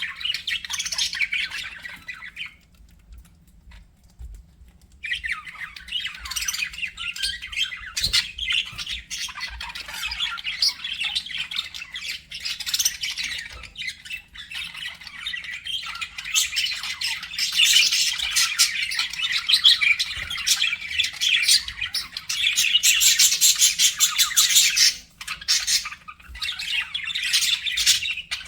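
Budgerigars chattering and warbling in fast runs of chirps, clicks and squawks. There is a short pause about three seconds in, then unbroken chatter that grows louder in the second half.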